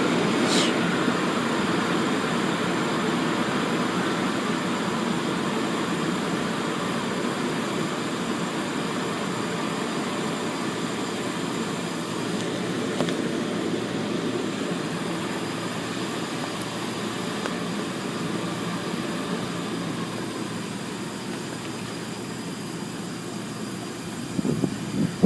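Automatic car wash equipment running: a steady rushing noise that slowly fades, with a few low bumps near the end.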